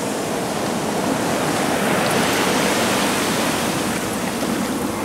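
Ocean surf washing in after a wave breaks hard: a steady rush of water that swells about two seconds in and then slowly eases.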